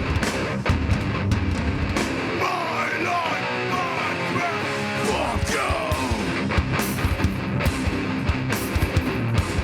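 Live heavy rock band playing loud distorted electric guitars and drums. About two seconds in the drums and bass drop out, leaving bending guitar notes, and the drums come back in around the six-second mark.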